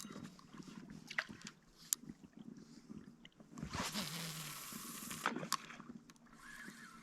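A few sharp clicks and about a second and a half of rushing noise in the middle, then geese start honking faintly near the end.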